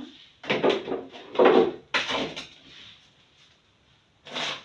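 Refrigerator being handled while it is opened up for cleaning: a few short rattling knocks and scrapes in the first couple of seconds, then one more near the end.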